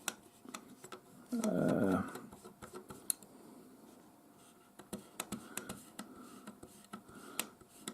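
Scattered light clicks and taps from hands handling a small model railway wagon and cotton buds, with one short louder noise about a second and a half in.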